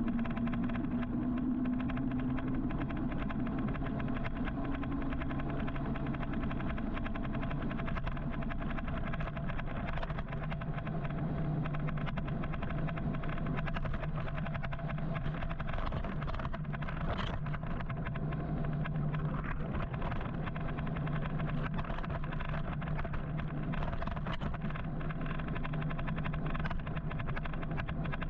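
Steady road traffic noise with a low steady hum, heard from an electric motorcycle riding through city traffic.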